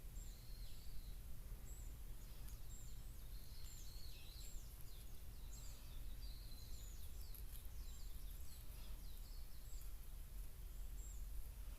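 Small birds chirping and singing, many short high notes that drop in pitch, repeated throughout, over a steady low rumble.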